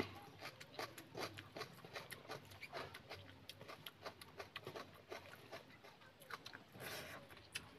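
Close-miked eating sounds: wet chewing and lip-smacking on a mouthful of rice and chicken, a rapid, irregular run of small clicks, with a brief louder noisy stretch near the end.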